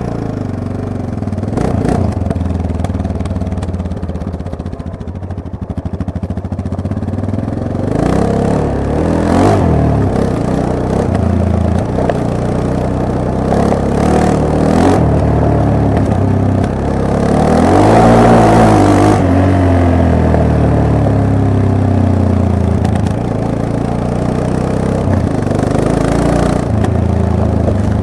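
Yamaha MT-03 motorcycle engine running under way, revving up and easing off in turn. Its pitch climbs highest about two-thirds of the way through, then falls back to a steadier run.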